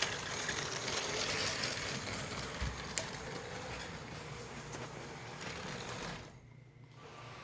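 LEGO City cargo train's small electric motor whirring as the train runs forward along its plastic track, with a few sharp clicks; the sound cuts off about six seconds in as the train stops.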